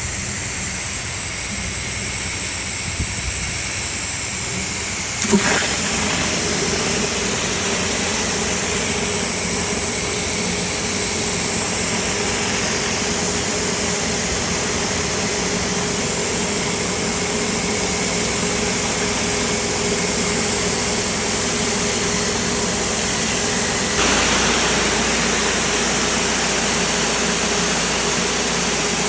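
Pressure washer running steadily with its water jet spraying onto concrete. The sound changes abruptly about five seconds in and again near the end.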